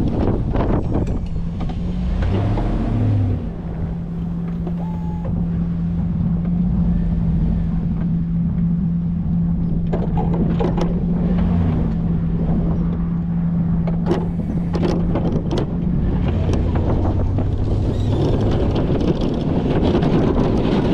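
Pickup truck engine running under a snow plow, its hum rising and falling in pitch twice, with a few knocks and wind buffeting the microphone.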